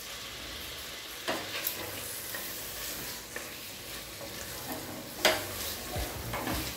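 Raw mutton pieces sizzling in oil and masala in a pressure cooker while a spatula stirs them, with a few sharp scrapes of the spatula against the pot, the loudest about five seconds in. The meat is being sautéed in the spice paste.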